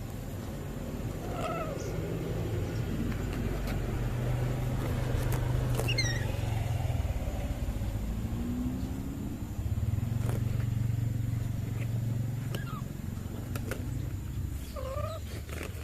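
Low, steady engine-like rumble that swells twice, with a few short calls over it, most likely from the pet lory: a quick falling run of whistled notes about six seconds in and a short rising call near the end.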